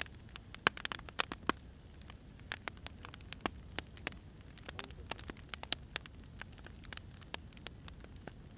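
Wood fire crackling: irregular sharp pops and snaps from burning firewood, several a second, over a low steady rumble of the flames.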